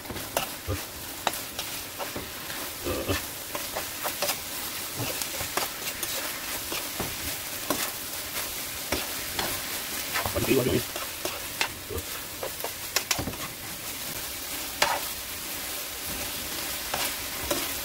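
Dried filefish strips (jwipo) sizzling in gochujang sauce in a hot frying pan, with a steady hiss. A spoon keeps scraping and clicking against the pan as the pieces are stir-fried.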